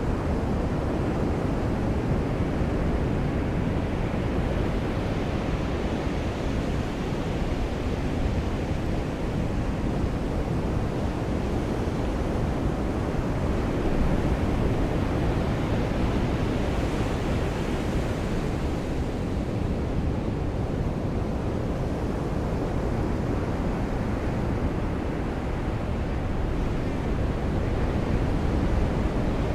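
Ocean surf washing on a beach: a steady, rushing noise that swells a little about halfway through.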